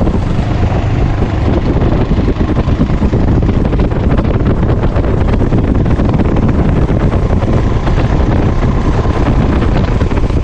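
Loud, steady wind buffeting on the GoPro's microphone during a motorcycle ride, with the bike running underneath.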